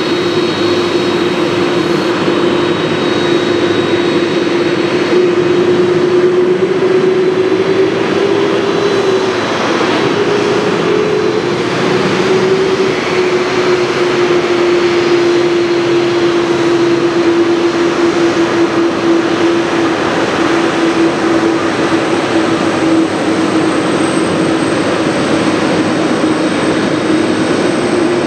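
Jet engines of a Boeing 747-400 running with a steady loud drone and a low whine that wavers slightly in pitch about ten seconds in.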